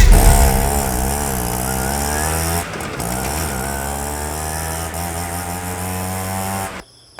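An engine running and being revved, its pitch swinging up and down, then cutting off abruptly near the end.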